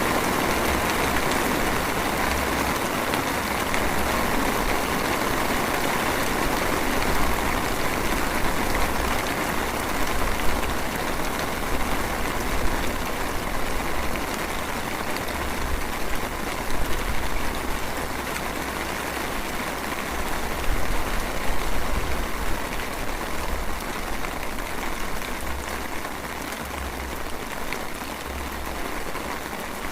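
Light rain falling steadily, an even hiss of drizzle, with a low rumble coming and going beneath it.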